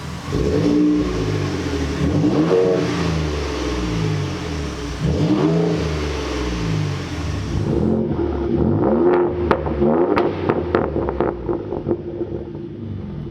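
2019 Ford Raptor's twin-turbo V6 through an AWE exhaust, revved repeatedly so that the pitch sweeps up and falls back every couple of seconds. In the later part a quick run of sharp crackles and pops comes from the exhaust between revs.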